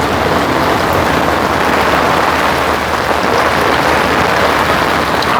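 Heavy rain falling steadily and drumming on an umbrella and mosquito netting overhead.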